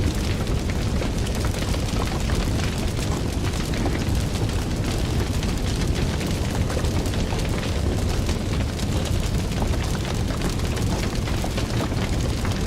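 Fire burning with a steady low roar and constant dense crackling and popping.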